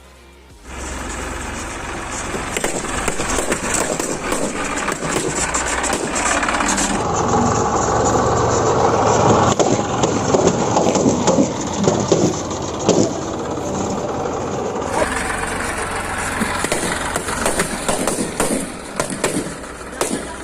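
Tractor engine running while balloons burst under its tyres: a steady engine sound broken by many sharp pops, the loudest bangs in the middle stretch.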